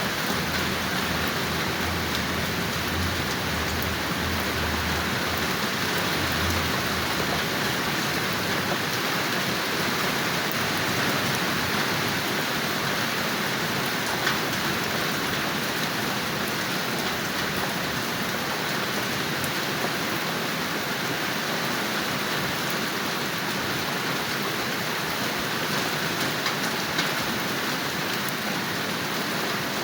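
Steady rain falling on a surface, an even hiss with scattered drop ticks, and a faint low rumble in the first few seconds.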